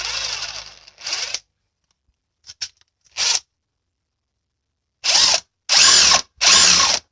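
AEG BSS18C12Z 18 V brushless cordless impact wrench run in short trigger pulls: a burst of about a second at the start, a few brief blips around the middle, then three bursts of about half a second near the end.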